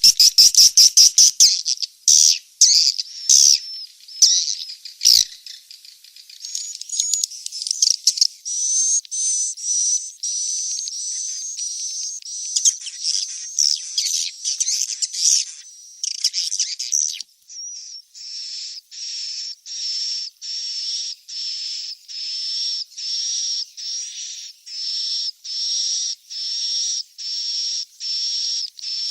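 Swiftlet chick calls from a lure recording of the kind played in swiftlet houses to draw the birds in to roost: a fast, dense jumble of high chirps and twitters. About seventeen seconds in it changes to a steady series of short, even chirps, roughly one and a half a second.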